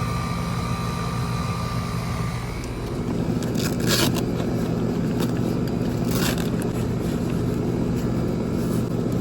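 Lennox split-system outdoor condenser unit running with a steady low hum. Brief scrapes about four and six seconds in.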